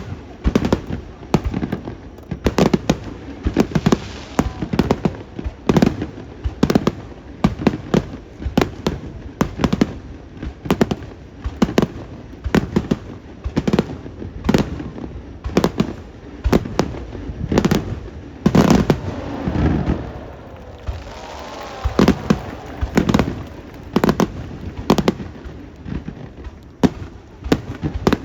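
Aerial fireworks bursting in quick, irregular succession: a steady stream of booms and bangs, some much louder than the rest.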